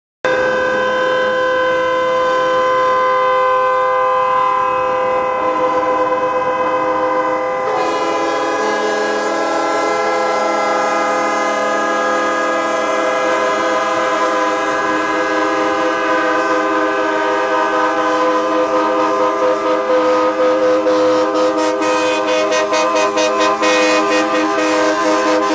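Several truck air horns sounding together in a long held chord. About eight seconds in another horn joins at a new pitch, and near the end the horns pulse rapidly on and off.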